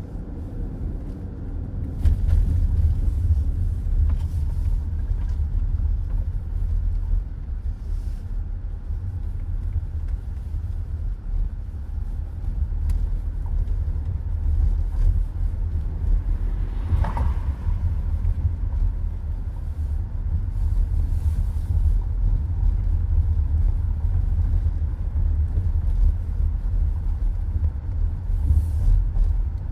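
Road noise of a car driving along a highway, heard from inside the cabin: a steady low rumble of tyres and running gear that grows louder about two seconds in.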